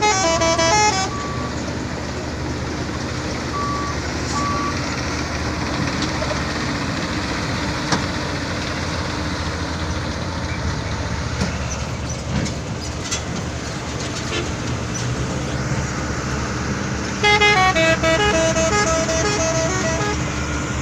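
Diesel dump truck engine running steadily while it unloads its load of fill soil, with a few scattered knocks partway through. A short tune of stepped notes plays over it in the first second and again from about seventeen seconds on.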